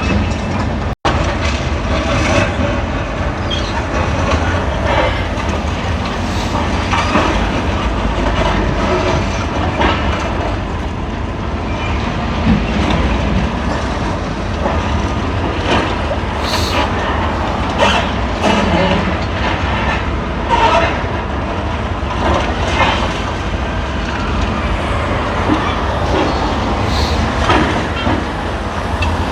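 Demolition excavator's diesel engine running under load, with repeated crunches, knocks and clatters of breaking masonry and falling rubble.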